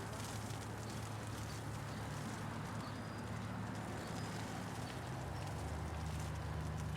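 Hail pattering as a steady hiss with faint scattered ticks, over the low hum of city traffic. The traffic hum grows a little stronger about five seconds in.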